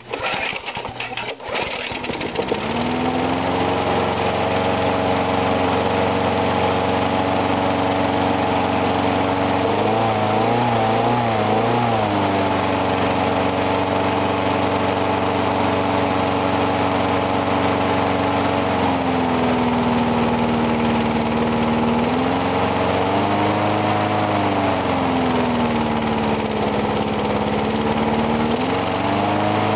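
4 hp Briggs & Stratton lawn mower engine pull-started cold, catching about two seconds in and then running steadily. Its speed wavers about ten seconds in and dips and picks back up several times in the second half.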